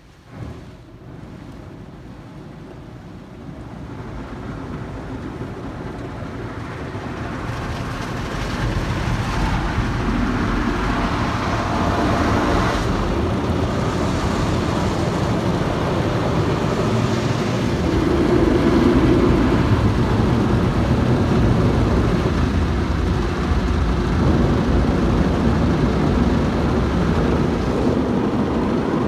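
Car wash running: a steady rush of water spray and wash machinery over the car, building up over the first ten seconds and then holding loud, with a short knock right at the start.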